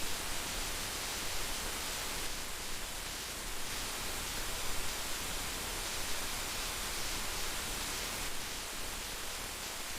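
Heavy rain falling steadily, a dense, even hiss with small irregular swells in loudness.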